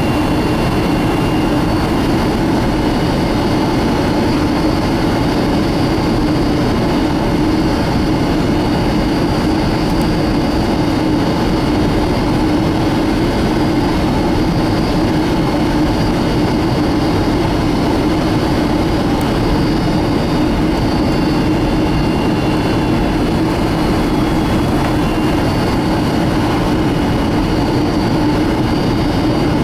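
Steady jet engine and airflow noise inside the cabin of a Boeing 757-200, a deep even rush with faint high whining tones.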